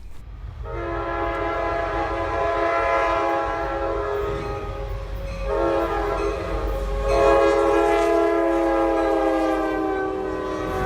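Diesel freight locomotive's multi-note air horn sounding two long blasts, the first ending about five seconds in and the second following almost at once, over the low rumble of the passing train. The horn is on the lead standard-cab EMD SD70 of Norfolk Southern freight 61X.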